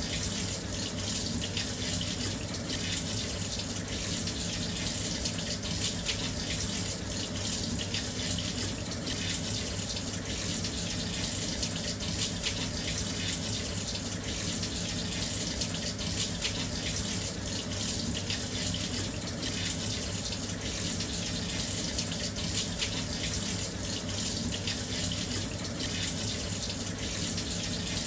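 Washing machine filling with water: a steady, unbroken rush of water pouring into the drum, with a faint low hum beneath it.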